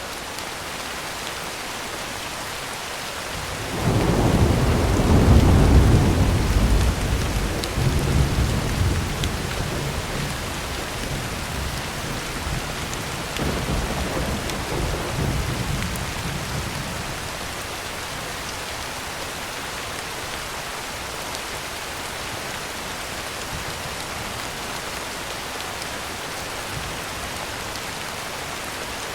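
Heavy rain hissing steadily on a tin roof. A roll of thunder breaks in suddenly about four seconds in, rumbles deep and loud, swells again a little later, and dies away, leaving the rain alone for the rest.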